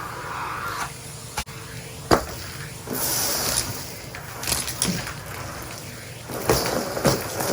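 Henry cylinder vacuum cleaner running while sucking up debris, with irregular knocks and rattles and short bursts of hiss as material goes up the hose; one sharp knock about two seconds in.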